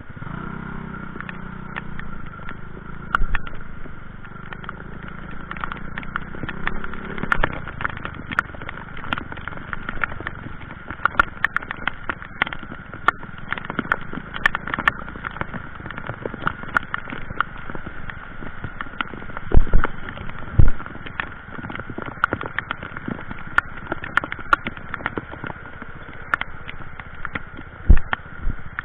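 Rushing floodwater in a swollen creek under heavy rain, with raindrops pattering and clicking close by. A low hum runs through roughly the first seven seconds, and a few loud thumps come near the middle and near the end.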